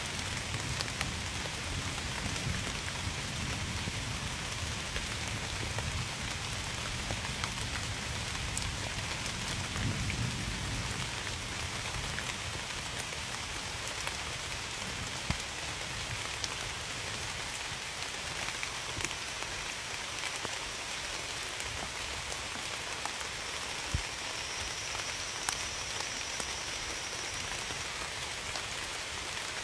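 Steady rain falling, with scattered louder drops striking close by and a low rumble through roughly the first ten seconds.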